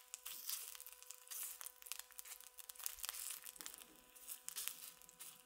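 Faint crackling and sizzling of ginger frying in hot oil in a stainless steel skillet.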